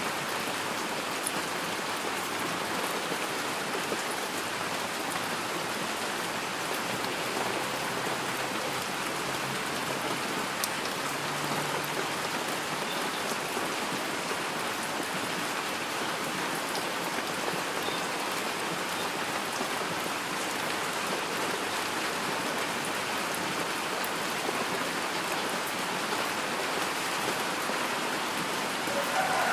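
Steady heavy rain: an even, unbroken hiss of rainfall with the odd sharper single drop tick.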